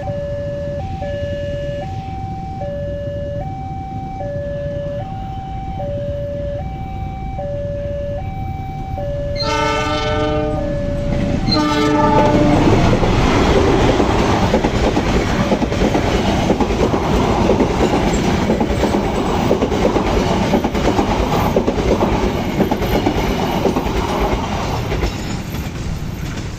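Railway level-crossing alarm sounding two alternating tones. About nine seconds in, the Argo Muria train's horn sounds twice, and the train then passes with loud rumbling and wheel clatter that fades near the end.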